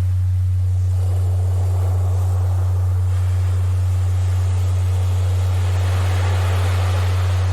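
A steady, unchanging low tone, a Rife-frequency sound-therapy tone, laid over recorded ocean surf. The surf swells and ebbs every few seconds, with a wave building about a second in and another near the end.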